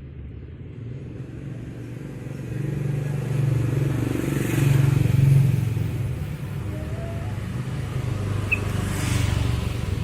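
Motor vehicles passing on a road: a low engine rumble that builds, with the loudest pass about five seconds in.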